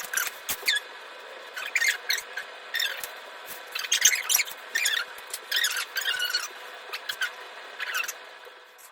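A run of short, high-pitched squeaks in quick, irregular bursts, each bending in pitch, with short gaps between them.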